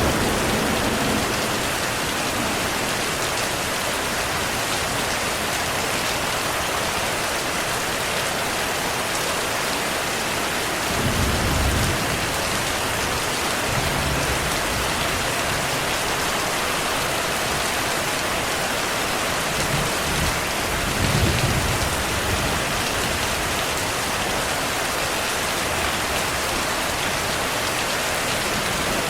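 Steady rain hissing, with low rolls of thunder rumbling in about a third of the way through and again about two thirds through.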